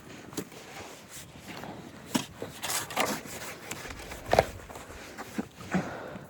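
Footsteps and scuffing on sandy, rocky ground as rocks are being cleared by hand, with scattered knocks and one heavier thud about four and a half seconds in.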